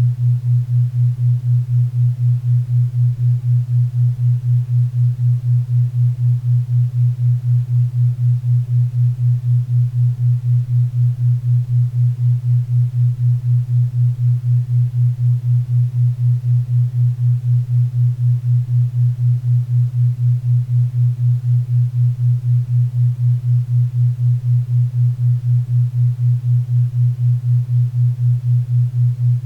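Theta-wave beat track: a steady low hum pulsing evenly about four times a second, a 4 Hz theta beat, over faint pink and brown noise.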